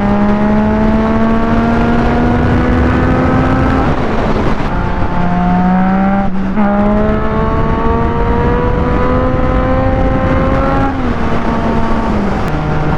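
Motorcycle engine accelerating, its pitch climbing steadily and dropping back at each upshift, about four times, over constant wind rush.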